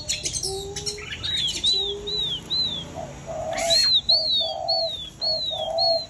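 Birds calling: a songbird repeats a short falling whistle about two to three times a second, over a run of lower repeated notes, with a few clicks in the first second.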